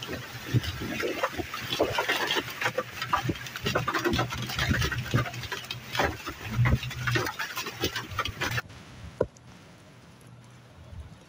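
Hailstones pattering densely on hard surfaces, a thick stream of sharp hits. About two-thirds of the way through it cuts abruptly to a quieter stretch with only scattered hits.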